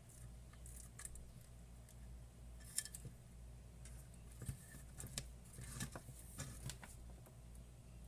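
Faint, scattered clicks and short scrapes of small parts and wires being handled, busiest in the middle, over a low steady hum.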